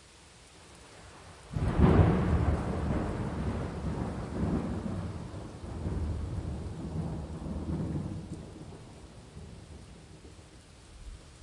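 A thunderclap cracks suddenly about a second and a half in and rolls on as a low rumble for several seconds, swelling again a few times before fading, over steady rain.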